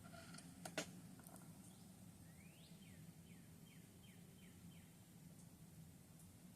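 Faint bird song: one rising note followed by about six quick down-slurred chirps, over a low steady hum, with one sharp click under a second in.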